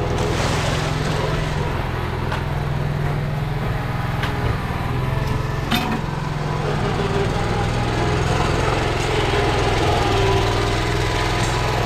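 Engine running steadily at an even speed, with a few metallic knocks, the sharpest about six seconds in.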